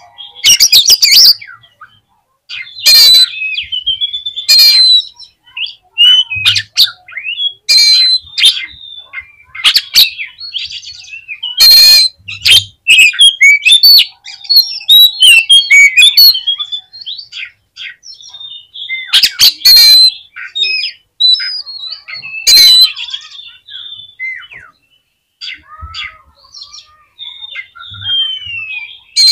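Oriental magpie-robin (kacer) singing loudly: quick, varied whistled phrases that slide up and down, broken by harsh rasping calls, with a few short pauses. It is the kind of excited, aggressive song used as a lure to rouse a captive male.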